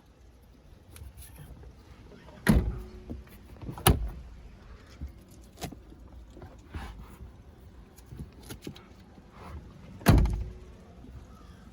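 Hand-worked body parts of a 2022 Toyota Highlander (seats, liftgate or doors) being moved and shut: three loud thunks, two close together and a third near the end, with lighter clicks and rattles between.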